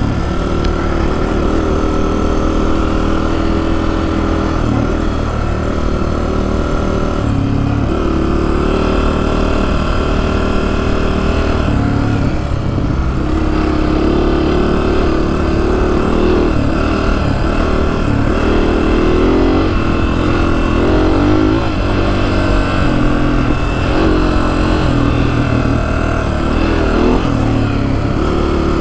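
Honda CRF250F dirt bike's single-cylinder four-stroke engine under riding load, the revs rising and falling again and again as the throttle opens and closes over the trail.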